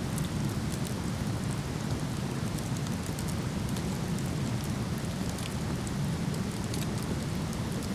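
Steady rushing of a waterfall, with scattered small crackles and pops from a burning wood fire.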